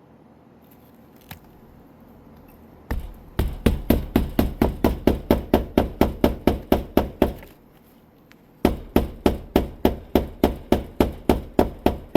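Hammer driving roofing nails into an asphalt shingle, rapid even strikes of about four a second in two runs separated by a short pause.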